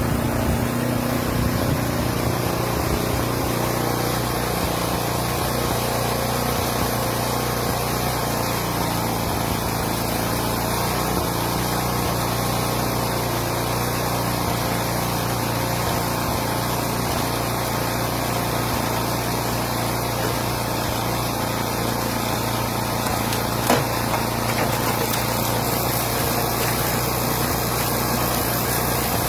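An engine running steadily under a constant hiss, with one short knock near the end.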